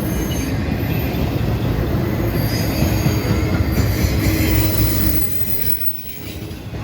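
Freight train passing close by: a heavy rumble of wheels on rail with a steady squeal over it, dropping off sharply about five seconds in.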